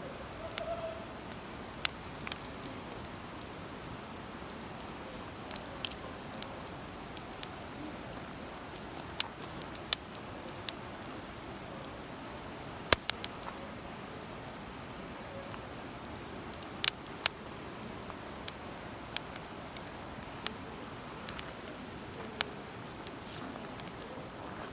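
Wood fire crackling in a Uniflame fire stand: irregular sharp pops and snaps over a steady hiss.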